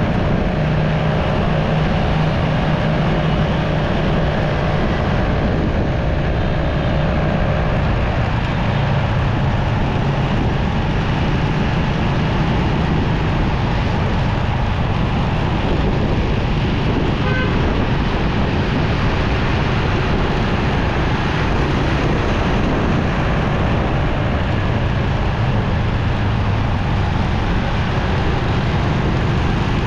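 Motorcycle riding through city traffic: steady wind rush on the microphone over the bike's engine and the surrounding traffic.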